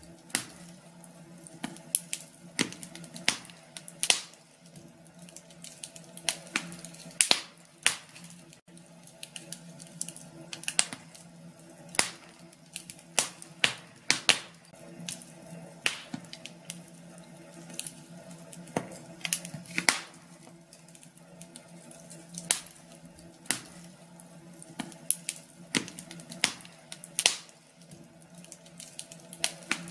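Wood fire in a fireplace crackling: irregular sharp pops and snaps, several a second, over a steady low hum.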